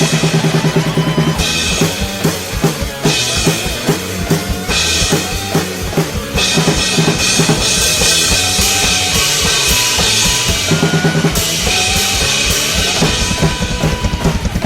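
Drum kit played along to a progressive metal instrumental backing track: fast, dense kick drum and snare hits under pitched melodic lines, with cymbals washing in brightly about six seconds in.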